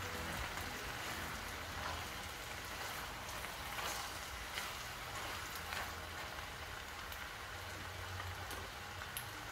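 Chopped vegetables sizzling in a stainless steel pot, a steady crackling hiss, while a metal spoon stirs them, scraping against the pot a few times.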